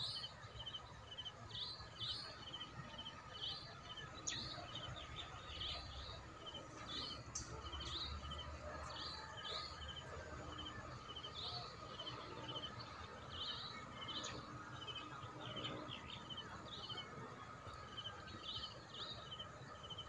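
Birds chirping over and over, short high calls about once or twice a second, over a faint steady hum and low background rumble.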